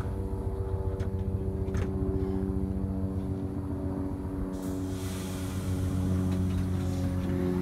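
NJ Transit electric train running past: a steady electric hum of several tones over a low rumble, with a couple of sharp clicks early on from the wheels, and a hiss of wheel-on-rail noise coming in about halfway through.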